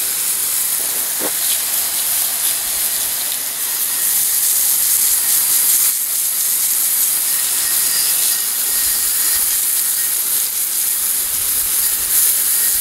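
Hose spraying a steady hissing jet of water, rinsing engine degreaser off a cast-iron drill press.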